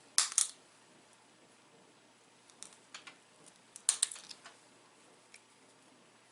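Small dacite flake being pressure flaked: sharp, high clicks as tiny flakes snap off under the pressure flaker. Two loud clicks right at the start, a few scattered ones around three seconds in, and a cluster of louder ones about four seconds in.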